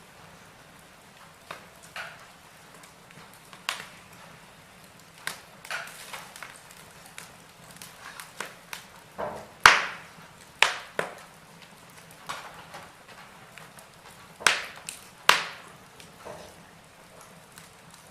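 Wood fire crackling in a fireplace: irregular sharp pops and snaps from the burning logs over a faint hiss, with the loudest pop a little before the middle and a pair of strong pops later on.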